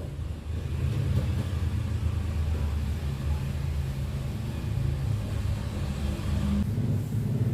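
A motor vehicle's engine running with a steady low rumble; its tone changes near the end.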